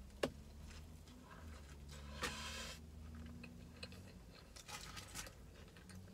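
Biting into and chewing a crispy fried chicken sandwich: a sharp crunch just after the start, a short crackly crunch a little past two seconds in, and a few softer chewing clicks about five seconds in.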